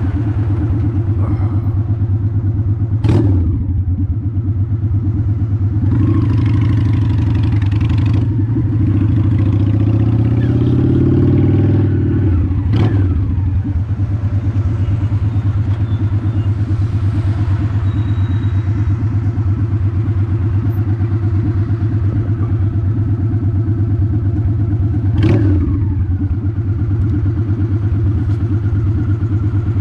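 2002 Honda Shadow ACE 750's V-twin engine running steadily under way, its pitch rising for a couple of seconds near the middle. Three sharp knocks cut through it, about 3, 13 and 25 seconds in.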